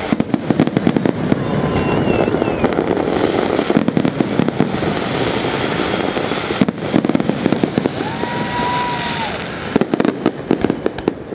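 Fireworks display: rapid crackling pops and bangs over a continuous rumble, with a brief whistle-like tone about eight seconds in.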